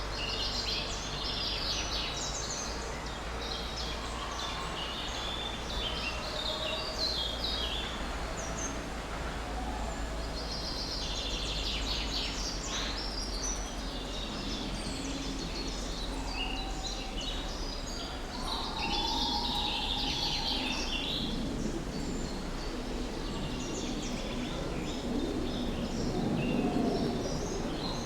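Several songbirds chirping and singing in quick overlapping phrases over steady outdoor background noise.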